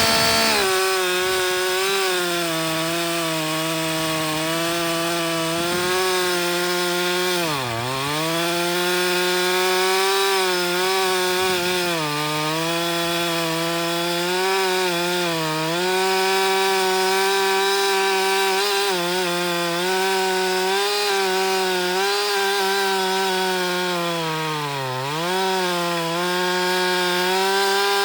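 Chainsaw at full throttle cutting through a log with a freshly reground chain, the engine holding a steady pitch under load and briefly bogging down twice.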